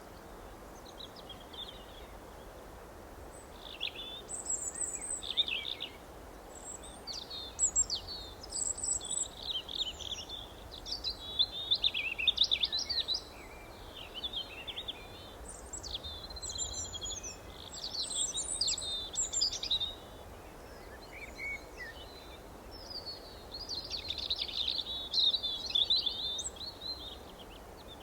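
Songbirds chirping and trilling in bursts of rapid high notes, over a steady low background hiss.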